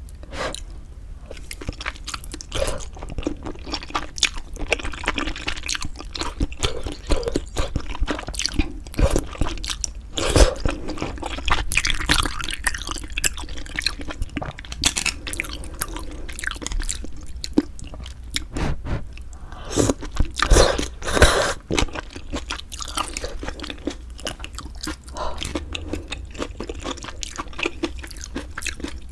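Close-miked eating sounds: chewing, with wet mouth clicks and short smacking noises, of pork-bone soup with glass noodles. There are a few louder clusters around a third of the way in and again about two-thirds through.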